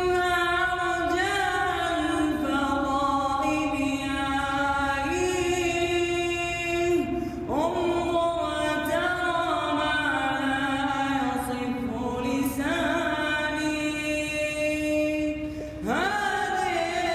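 A young man singing an Arabic nasheed unaccompanied, in long held phrases that slide and ornament in pitch. A new phrase begins about seven seconds in and another near the end.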